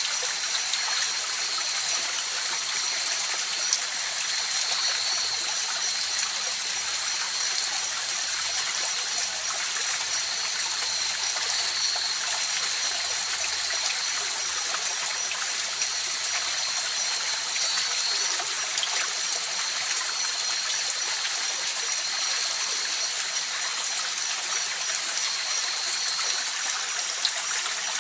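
River water rushing and babbling over rocks, a steady even rush, with a thin steady high-pitched tone running through it.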